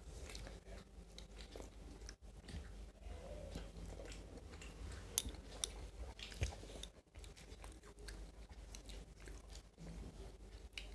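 Faint chewing and mouth sounds of people eating rice and curry with their hands, with scattered light clicks, two sharper ones around the middle, over a low steady hum.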